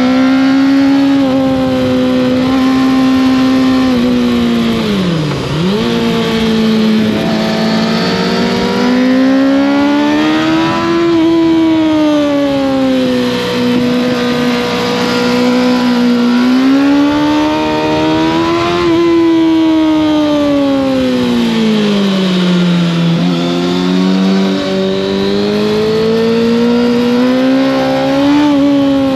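Kawasaki ZX-6R inline-four engine through an Arrow exhaust, running under load with its pitch rising and falling in long sweeps as the throttle is opened and eased. About five seconds in the revs drop sharply and pick up again.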